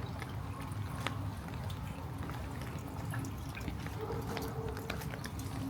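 Gentle rain falling, with scattered drops and drips ticking sharply and irregularly over a steady low background noise.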